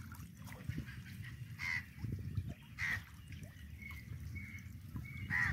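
A few short bird calls, a second or more apart, over a low steady rumble.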